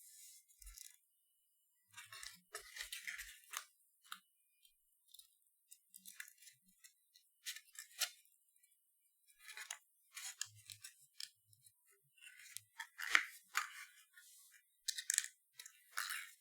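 Paper being handled and folded: short, scattered rustles and crinkles as the cardstock box's walls are raised and creased into shape.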